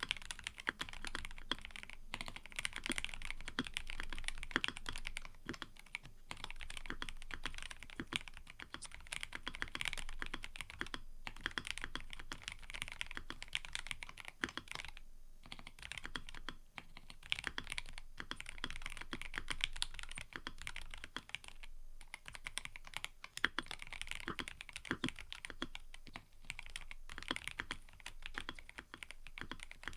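Mechanical keyboard being typed on in a fast, continuous stream of key clicks, with a couple of brief pauses.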